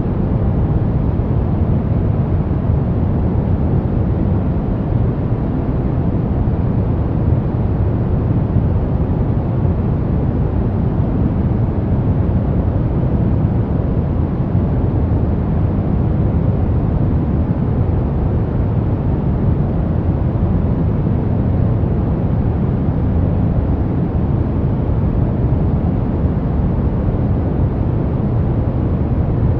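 Steady synthetic pink noise: an even, low rushing hiss that does not change.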